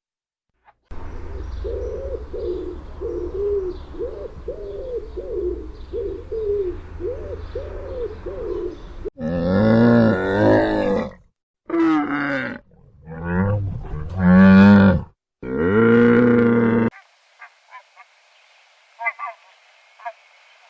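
Farm animal calls: a run of short, evenly repeated calls over a low rumble, then four long, loud, low-pitched calls, then a few faint ticks near the end.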